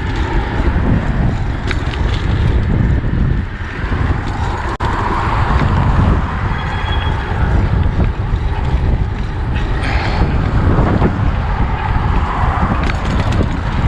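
Wind buffeting the microphone of a camera riding along on a moving bicycle: a steady, rumbling rush with no speech.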